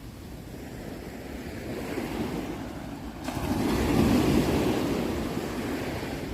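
Ocean surf: waves washing in, one swelling to its loudest about four seconds in and then ebbing away.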